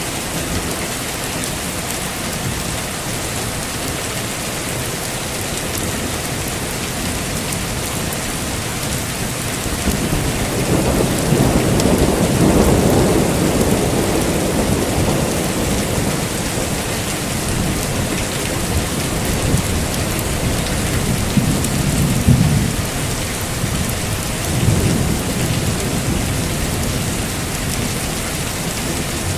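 Heavy steady rain with thunder: a long low rumble swells up about ten seconds in and fades over several seconds, followed by two shorter rumbles near the end.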